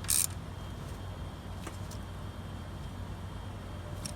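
Hand tools on the starter's power-cable nut: a short metallic scrape right at the start, then a few faint clicks over a steady low hum.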